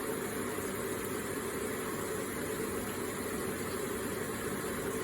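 Electric water feature running: a steady, even splash and trickle of falling water.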